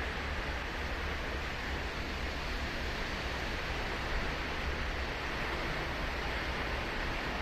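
Ocean surf on Sagami Bay washing steadily onto the beach: an unbroken hiss of breaking waves over a low rumble, with no single wave standing out.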